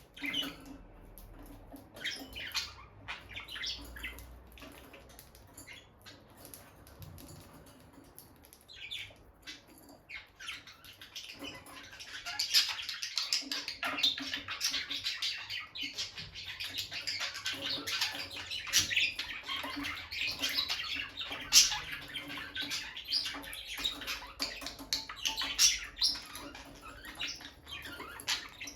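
Peach-faced lovebirds chirping: scattered single chirps at first, then, a little before halfway, a dense, continuous run of rapid high chirps.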